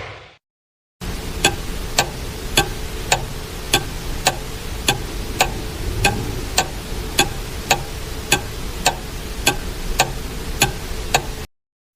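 Clock ticking: a sharp, even tick a little under twice a second over a steady background hiss, starting after a second of silence and cutting off abruptly near the end.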